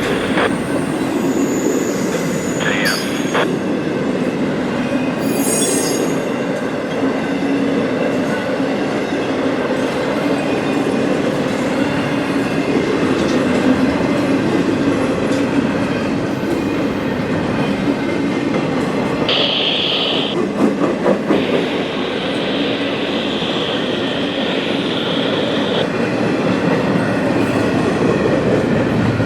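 Freight train cars rolling past with a steady rumble and clatter of wheels on rail. High-pitched wheel squeal comes in short bursts early on, again near the middle, and then holds steadily for about four seconds.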